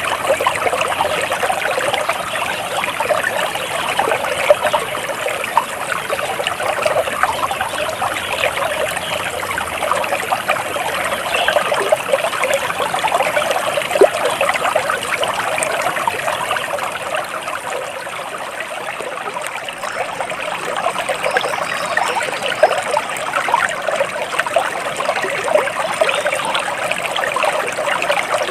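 Flowing water trickling steadily, an even rushing with fine splashy detail and no pauses.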